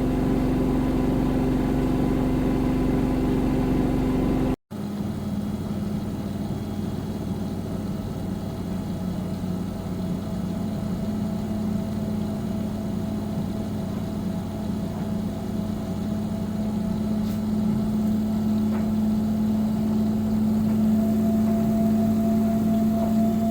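V-ZUG Adora V2000 washing machine running, a steady motor hum with a few held tones. It cuts out abruptly for a moment about four and a half seconds in, then resumes a little lower in pitch and slowly creeps up.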